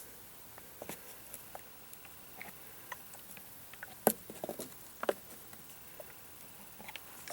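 Scattered light clicks and knocks at an irregular pace, with two sharper knocks about four and five seconds in.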